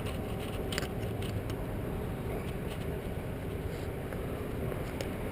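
An engine running steadily with a low rumble, with a few light clicks about a second in and again near the end.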